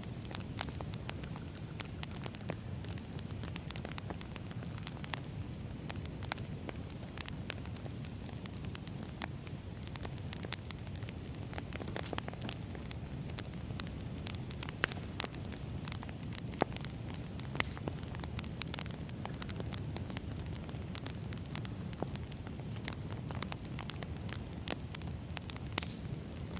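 Wood fire burning with a steady low rumble and constant irregular crackling, and now and then a louder sharp pop.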